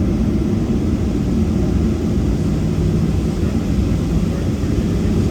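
Cabin noise of a Boeing 737-700 with its CFM56-7B engines at takeoff thrust, accelerating for takeoff. It is a steady, loud, low rumble, and a faint steady hum joins in about halfway through.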